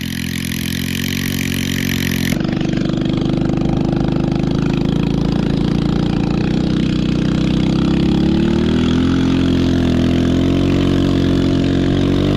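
Chinese 110cc ATV's small single-cylinder four-stroke engine running under throttle, its pitch wavering up and down as the throttle changes in the second half.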